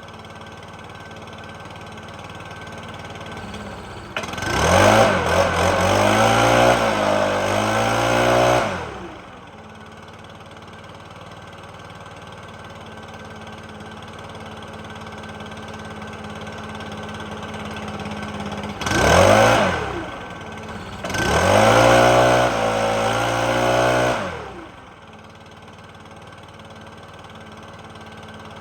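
Stihl BR600 backpack blower's engine idling steadily, then revved up towards full throttle and back down three times: a long rev of about four seconds, a short blip, and another rev of about three seconds.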